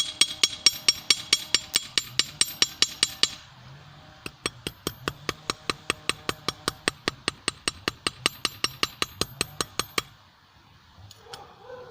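Hammer blows on hot steel on a small 25 lb anvil, forging a screw into a blade: two runs of quick, even strikes, about five a second, each with a high ring from the anvil. There is a short break between the runs, and the hammering stops about ten seconds in.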